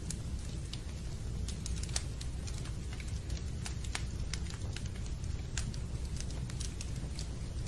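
Fireplace fire crackling: irregular sharp snaps and pops, several a second, over a steady low rumble.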